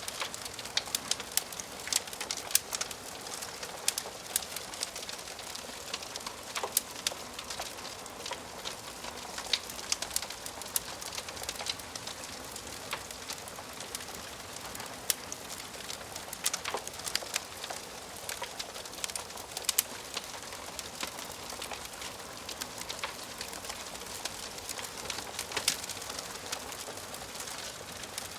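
Wood fire crackling in a fireplace: frequent, irregular sharp pops and snaps of burning wood over a steady soft hiss.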